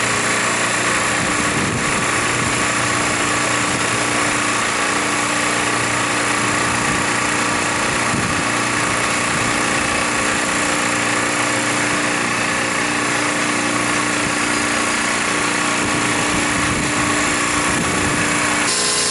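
Rooftop refrigeration condensing unit running steadily, its compressor working while the system takes a refrigerant charge. It makes an even mechanical noise with a steady hum in it, and the hum drops out near the end.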